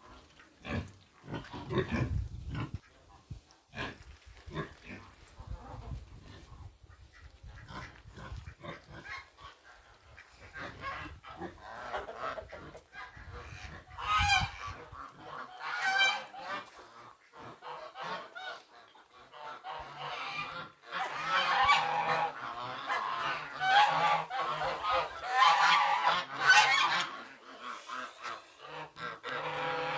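Pigs grunting low through the first half. From about 14 seconds in, domestic birds call loudly and repeatedly, most densely between about 21 and 27 seconds.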